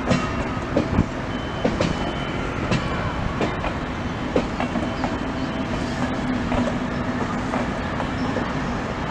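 Passenger coaches rolling slowly past on the rails, their wheels clicking irregularly over rail joints and points, over a steady low hum.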